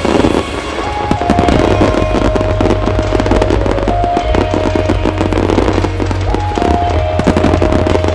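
Large fireworks display: rapid bangs and crackling of shells bursting, over loud music with a slow held melody.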